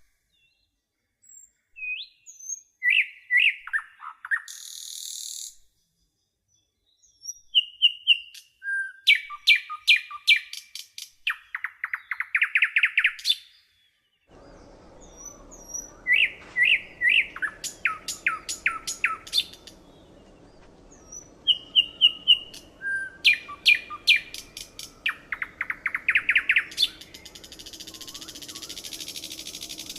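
A songbird singing in phrases of sharp chirps, rapid repeated notes and a rising buzzy trill, with pauses between them. The same phrase comes back about every 14 seconds, and a harsh hiss sounds near the end.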